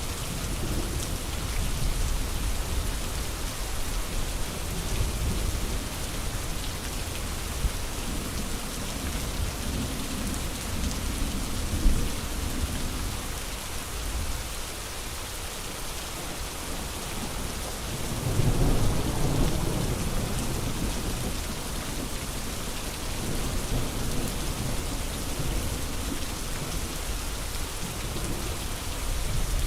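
Steady rain falling, with low rolls of thunder rumbling in and out; the biggest roll swells up about two-thirds of the way through, and a single sharp crack comes near the middle.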